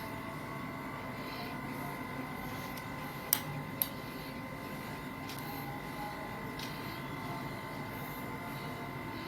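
Steady room hum with a thin high whine, broken by two sharp clicks about half a second apart a little over three seconds in.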